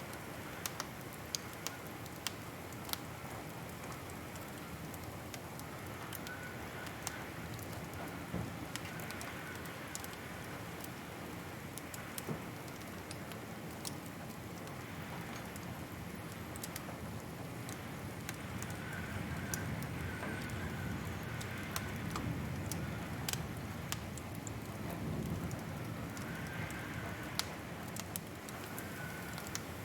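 Wood fire crackling in a fireplace: irregular sharp pops and snaps over a steady soft hiss and low rumble, which grows slightly louder past the middle.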